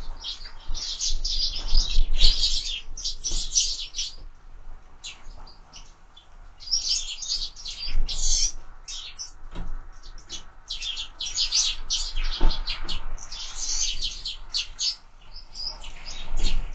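Sparrows chirping in quick, busy clusters of short high notes, pausing briefly now and then, with a few soft knocks mixed in.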